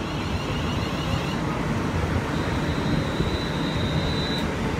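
London Midland class 350 Desiro electric multiple unit pulling into the platform, a steady rumble with a high steady whine that comes in about two seconds in and stops near the end.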